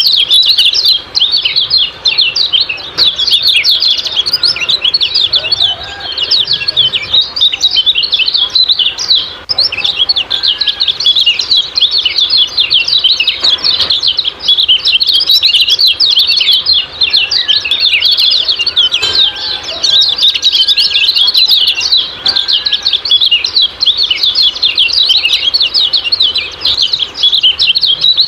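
Kecial kuning, a small yellow white-eye, giving its rapid 'ciak-ciak' chirping song: a dense, unbroken run of quick, high chirps with hardly a pause.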